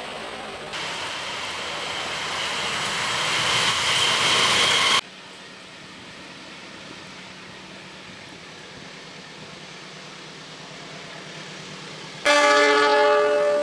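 A train running past, its rumble and rush growing louder for about five seconds before cutting off abruptly, then a quieter steady rumble. Near the end a locomotive horn sounds loudly.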